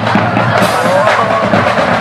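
Live drum and percussion music, drums struck in a quick, busy rhythm.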